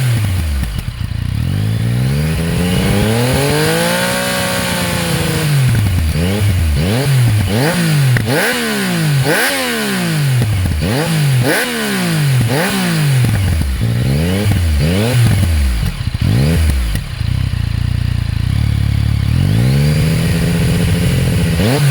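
Yamaha MT-09's three-cylinder engine revved through its modified stock exhaust. There is one longer rev about four seconds in, then a run of quick blips about one a second, a short steady idle, and a last rev near the end.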